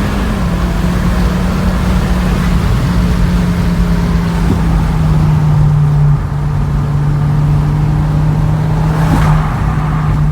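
Turbocharged Volvo car engine running with a steady drone that drops in pitch in several steps, with a brief hiss about nine seconds in.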